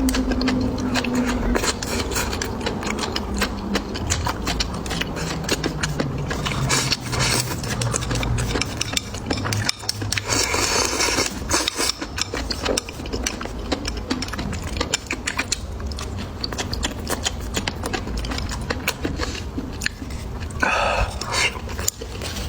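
Close-miked eating: irregular crunching, biting and wet chewing sounds, with many sharp little clicks and crackles.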